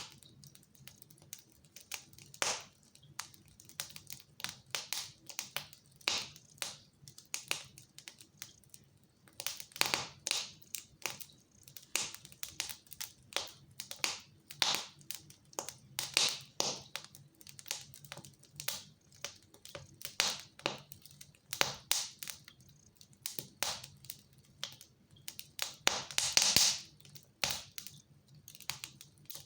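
Wood fire in a fireplace crackling, with irregular sharp pops, some in quick clusters, and a longer, louder crackling burst near the end.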